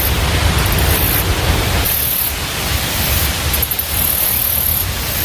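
Steady rushing noise of water pouring over the spillway, with a fluttering low rumble of wind on the microphone.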